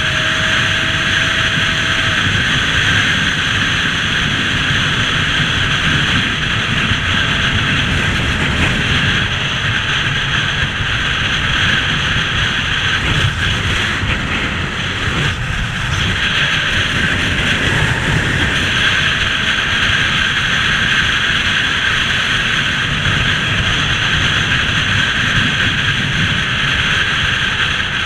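Motorcycle riding at a steady speed: its engine runs under a loud, steady rush of wind over the microphone.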